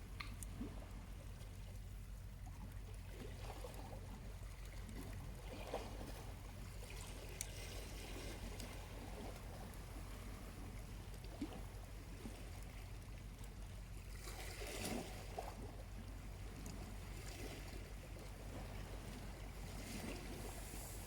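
Small waves lapping softly on the shore over a low steady rumble, one wave washing in about two thirds of the way through. A few faint crackles and pops from a charcoal campfire sound now and then.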